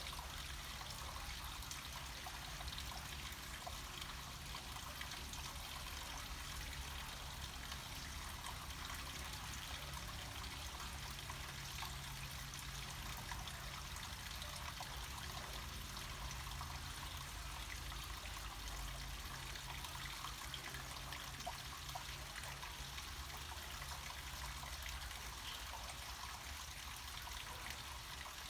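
Small mountain stream of water trickling and pouring down the rocks, a steady even rush with a low rumble underneath.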